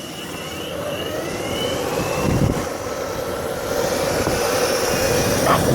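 A vehicle pulling away with a high whine that rises in pitch over the first two seconds, over a steady rushing noise like wind and motion that grows louder. There is a low rumble partway through and a couple of short sharp sounds near the end.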